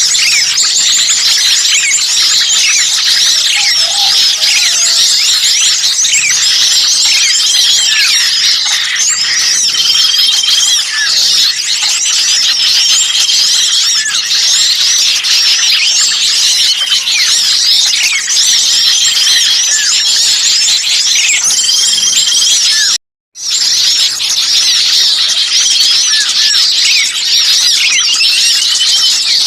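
Many small songbirds chattering and chirping noisily at once, quick high chirps and short whistled notes overlapping without pause, the frantic 'kejepit' (trapped-bird) chatter used to lure small birds. The sound cuts out briefly about 23 seconds in.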